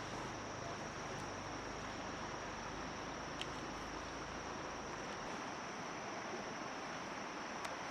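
Insects, crickets or similar, chirring in a steady high-pitched chorus over an even hiss, with a low hum that fades out about five seconds in and a couple of faint clicks.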